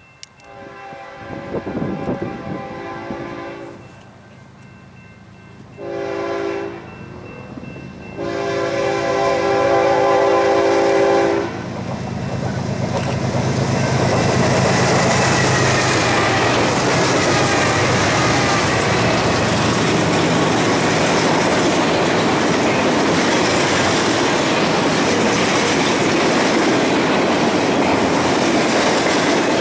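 A diesel freight locomotive horn sounds three blasts: long, short, then long. The train then passes close by, loud and steady, with wheels clacking on the rails.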